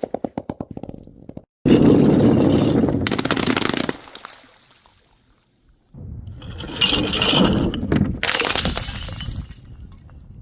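Something brittle being broken and crushed, with clinking. A fast run of clicks dies away over the first second or so, then a sudden crunching crash that runs for about two seconds. After a pause a second long crunching crash follows from about six seconds in.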